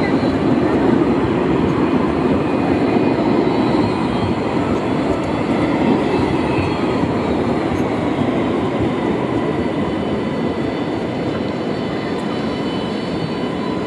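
Sydney light rail tram running: a steady rumble of wheels on rail with a faint high whine.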